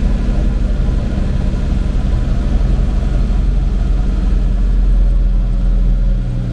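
Old tractor's engine running steadily under load while pulling a loaded manure trailer, its deep note swelling slightly about five seconds in and easing near the end.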